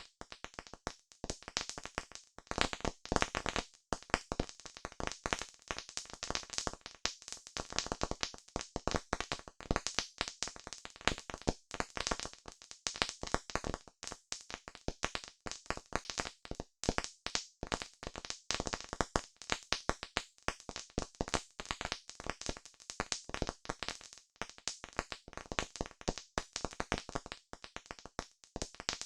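Campfire crackling: a dense, unbroken stream of sharp pops and snaps from burning wood.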